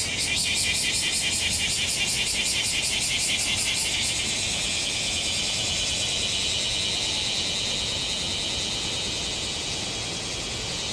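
Loud chorus of cicadas buzzing. A fast pulsing, about five pulses a second, gives way about four seconds in to a steadier high drone.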